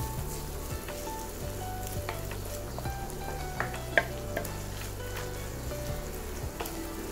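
Sliced onions sizzling in hot oil in a nonstick frying pan as a wooden spoon stirs and scrapes them, with a few light taps of the spoon against the pan; the sharpest tap comes about four seconds in.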